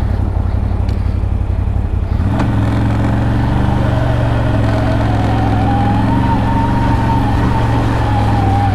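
ATV engine running under way in high range, its note changing about two seconds in. A whine rises between about four and six seconds in, then holds steady.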